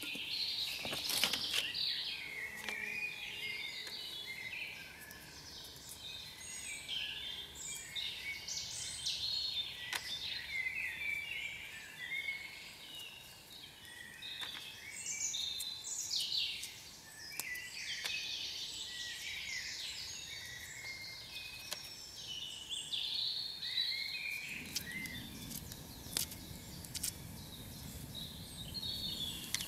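Several woodland birds singing at once, a steady mix of overlapping chirps and warbling phrases, with a few faint sharp clicks. A low rushing noise joins about 24 seconds in.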